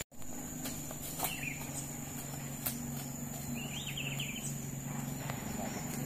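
Outdoor rural ambience: a few short bird chirps about a second in and a quick run of them a little past the middle, over a steady low hum.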